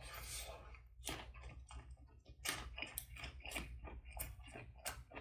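A person chewing a mouthful of boiled pork wrapped in a perilla leaf up close to the microphone, with irregular wet mouth clicks over a low steady hum.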